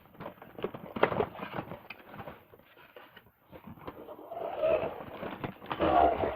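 Handling noise from a toy truck and its packaging being picked up and moved about: irregular clicks, knocks and rustling, loudest about a second in and again near the end.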